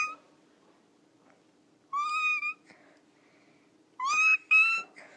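Three short, high-pitched mewing calls, each slightly rising in pitch: one about two seconds in and two close together near the end, over a faint steady hum.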